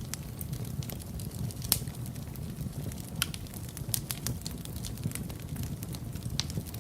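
Wood fire in a fireplace crackling: a steady low rumble of flames with irregular sharp pops and snaps, the loudest a little under two seconds in.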